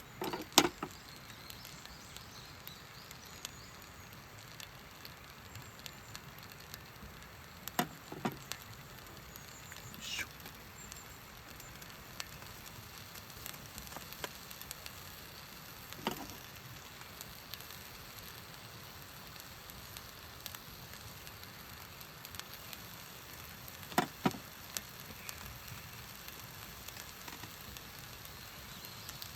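Faint steady crackling hiss of a camp cooking fire, broken by a few sharp knocks and clinks: one just after the start, a pair about eight seconds in, and others around sixteen and twenty-four seconds.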